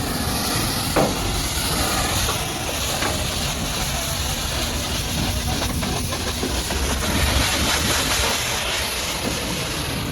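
Pressure washer's high-pressure water jet hissing steadily as it sprays a truck, with a low rumble underneath and one short knock about a second in.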